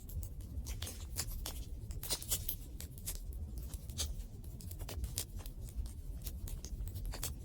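Wood campfire crackling, with irregular sharp pops and snaps several times a second over a low steady rumble.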